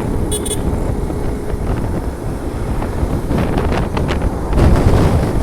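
Wind buffeting the microphone on a moving motorcycle, with the bike's engine and road rumble underneath; the rumble grows louder near the end. A brief high-pitched beep sounds about half a second in.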